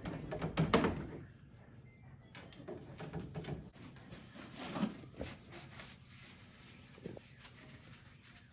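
Clunks, knocks and rubbing of hands-on work removing a built-in dishwasher: a burst of loud knocks at the start, scattered lighter knocks over the next few seconds, and one sharp tap near the end.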